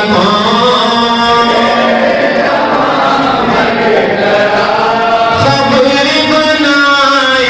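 Voices chanting a mournful Urdu noha (lament for Husain) with long, drawn-out held notes.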